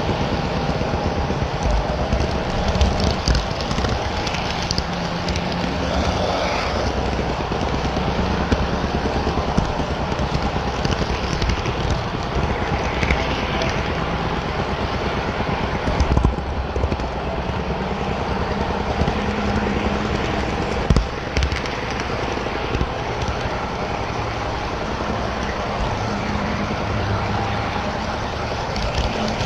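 HO scale model trains running: a steady rumble of wheels on track, with scattered clicks over rail joints and turnouts.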